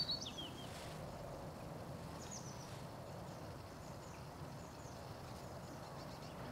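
Small songbirds chirping faintly over quiet outdoor background noise: a quick run of short high chirps that fall in pitch in the first second, and more high chirps about two seconds in.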